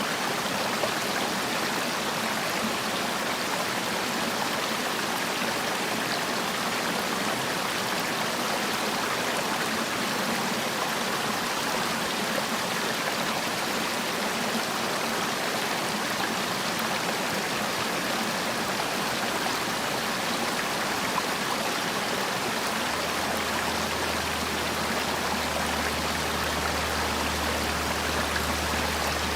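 Mountain valley stream rushing steadily over rocks, an even, unbroken water sound; a low rumble joins in near the end.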